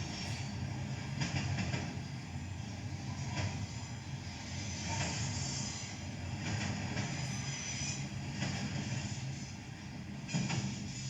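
BNSF freight train's diesel locomotives running with a steady low rumble, with occasional clacks from the wheels passing over the rails.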